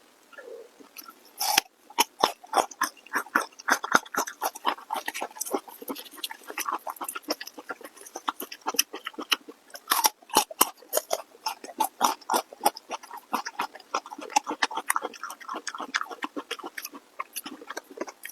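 A person chewing food close to the microphone, with a dense run of quick wet clicks and crunches that starts about a second and a half in.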